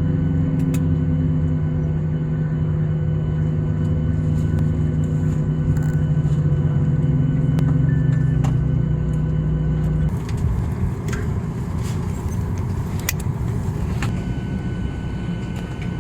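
Cabin noise aboard a Boeing 737-800: a steady engine hum that gives way, about ten seconds in, to a rougher rumble with scattered clicks and knocks.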